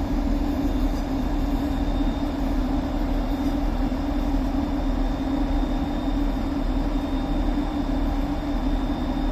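Siemens Class 350 Desiro electric multiple unit giving off a steady low electrical hum, with a faint high whine held at one pitch.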